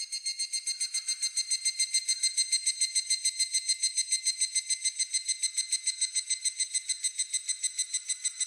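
A higurashi (evening cicada, Tanna japonensis) calling: a fast, even run of ringing, high-pitched pulses, about eight a second, swelling over the first second or so and then holding steady.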